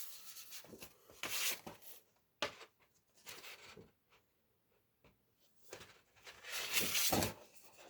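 Scattered rustling and handling noises from a vinyl record and its paper sleeve and cardboard jacket being handled. There is a sharp click about two and a half seconds in and a longer, louder rustle near the end.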